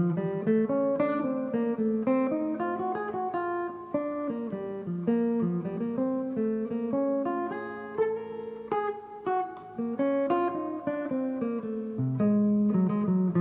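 Guitar playing a run of single notes in a bebop line, with lower notes sounding beneath.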